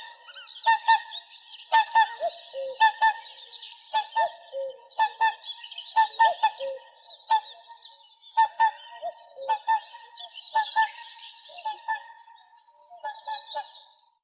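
Whooper swans calling: a run of short, pitched honking calls, one to three a second, with a fainter high chatter above them.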